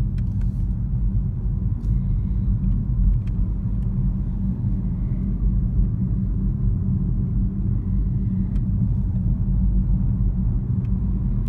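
Steady low road and engine rumble inside the cabin of a BMW 1 Series hatchback being driven along a village road.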